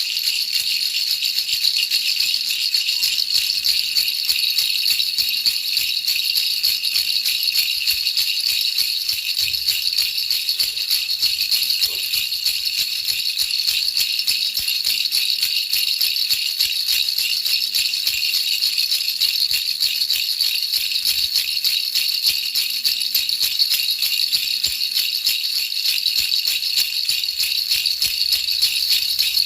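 Baby rattle shaken quickly and without a break, a dense steady rattling hiss made of many fine rapid clicks, used as white noise to lull a baby to sleep.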